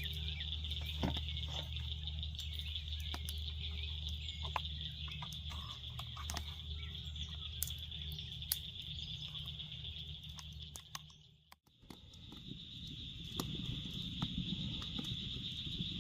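Summer insects trilling in a steady high-pitched chorus, with scattered light clicks. A low steady hum runs underneath and cuts off suddenly about eleven seconds in.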